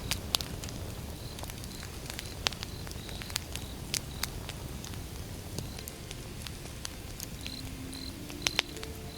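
Wood fire crackling and popping over a steady low rush, with irregular sharp snaps, a few of them loud. A short high chirp repeats in the background, and a few brief low tones sound near the end.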